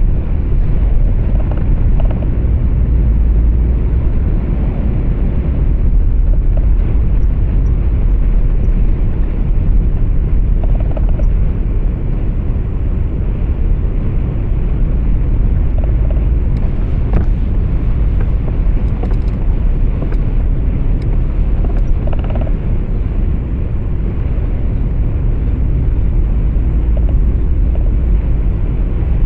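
Truck engine and road noise heard inside the cab while driving: a steady low rumble.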